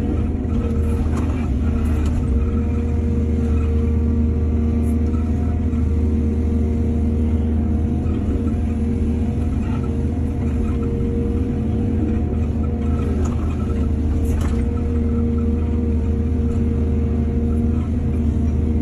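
Heavy diesel earthmoving machinery running steadily under load, a deep rumble with a constant engine hum. A few brief knocks stand out: a couple near the start and two more about two thirds of the way through.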